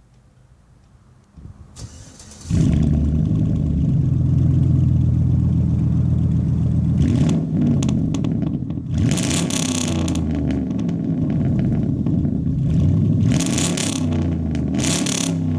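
2008 Chevrolet Silverado Z71's V8 with straight-piped true dual exhaust (no mufflers, catalytic converters only) cranking over and firing up about two seconds in, then running loud. It settles to a steady idle, then is revved and let back down several times in the second half.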